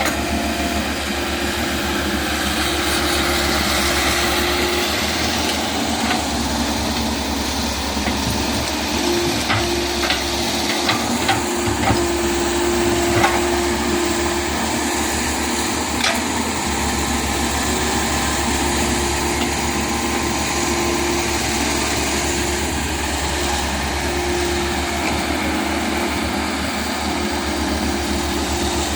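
Komatsu PC100-6 hydraulic excavator running steadily, with a few sharp knocks near the middle.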